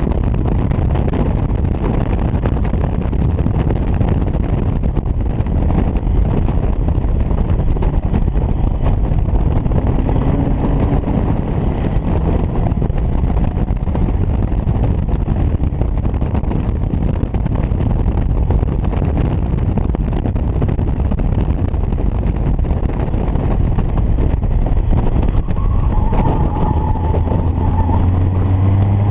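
Onboard sound of a Caterham Academy car at speed. Heavy wind buffeting on the microphone in the open cockpit mixes with engine and road noise, and the engine note rises near the end as the car accelerates.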